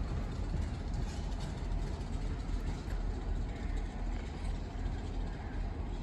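Steady rumble of a passing train, with noise spread across the range and no clear tones.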